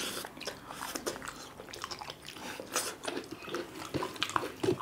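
Close-miked chewing of two people eating by hand: an irregular run of short mouth clicks and smacks.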